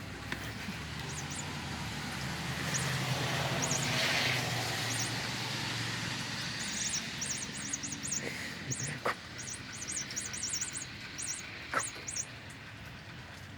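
Outdoor background sound: a vehicle's low rumble swells to a peak about four seconds in and fades away, while small birds chirp in quick clusters of short, very high notes through the second half.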